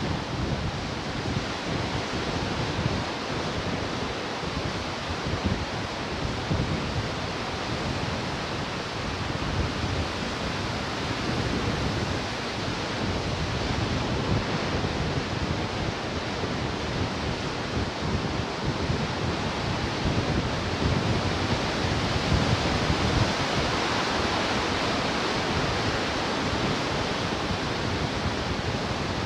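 Ocean surf washing steadily onto the shore, a continuous rush of water that swells a little about three-quarters of the way through.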